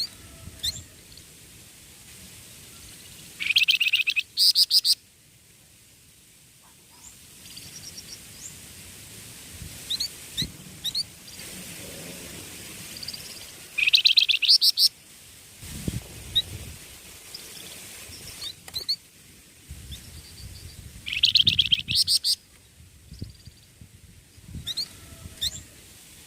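Young songbird singing: three loud bursts of rapid, high, repeated chirping notes, each lasting a second or two, with single short high notes between them.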